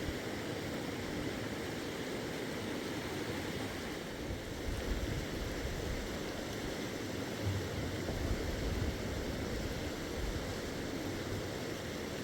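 Steady rain, an even hiss of falling water, with a few brief low rumbles about five and eight seconds in.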